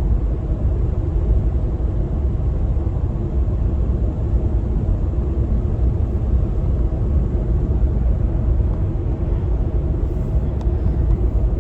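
Pickup truck driving at cruising speed: steady engine and road rumble.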